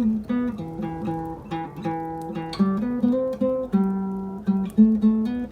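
Spanish-made Almires nylon-string classical guitar playing a slow phrase of the verse melody, plucked notes often sounding in pairs, each one ringing on after it is struck.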